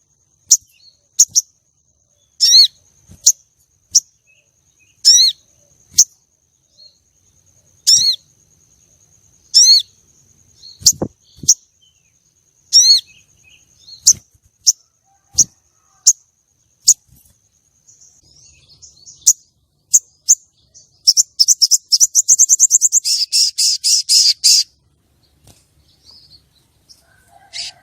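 Female crested jay (sogon) calling: single sharp whistled notes, each bending downward, a second or two apart, then a fast dry rattle of about ten notes a second lasting some three and a half seconds near the end. A faint high steady whine sits beneath the first part.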